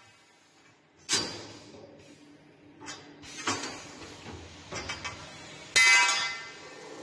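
CNC double-head automatic-feeding chamfering machine working through its cycle: a series of sharp metallic clanks, each ringing and fading, about four in all, the loudest a little before six seconds in, over a steady machine hum.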